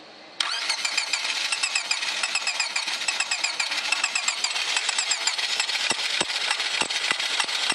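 Starter motor cranking the 1999 Honda Civic's D16Y7 engine steadily from about half a second in, with no catch: the engine cranks but won't start. Sharp knocks join the cranking rhythm from about six seconds in.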